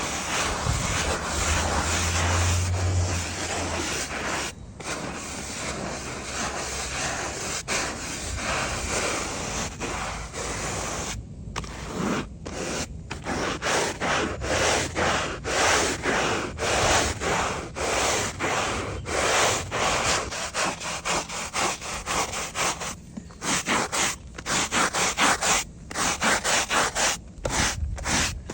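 Stiff brush scrubbing rough, mossy tarmac under thick dirty foam, gritty and crunchy. It starts as continuous scrubbing, then breaks into separate back-and-forth strokes at about two a second.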